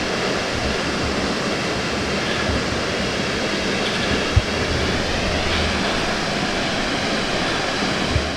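Steady rush of a waterfall's falling water, with a brief low bump about four seconds in.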